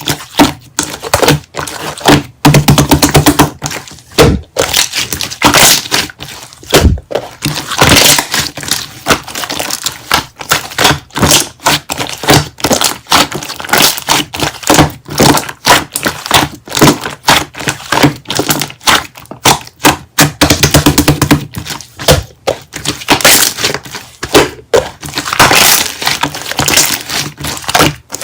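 Slime being squeezed, folded and pressed by hand: a dense, fast run of sticky pops, clicks and crackles.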